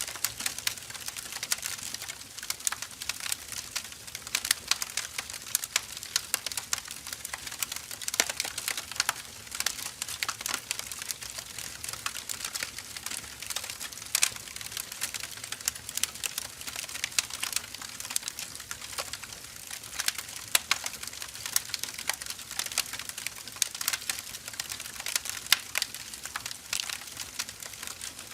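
Firewood burning, with dense irregular crackles and pops over a steady hiss of the flames.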